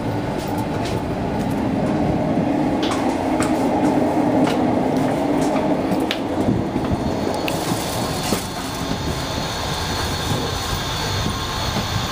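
Interior running noise of the Hokutosei sleeper train at speed: a steady rumble of wheels on rails, with occasional sharp clicks. About seven and a half seconds in, the noise turns brighter and hissier.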